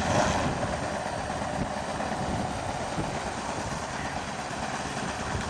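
Radio-controlled model airplane's motor and propeller running as a steady, noisy drone, a little louder at the start.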